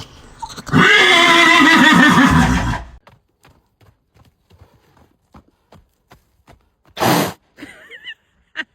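A horse whinnying loudly for about two seconds, its pitch wavering. Then a run of light hoof clicks and a short noisy burst about seven seconds in.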